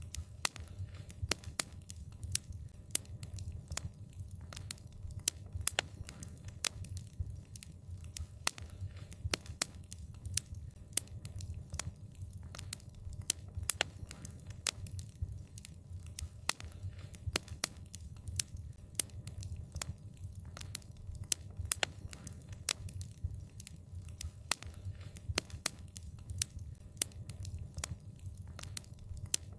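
Wood fire crackling: irregular sharp pops and snaps several times a second over a steady low rumble of burning.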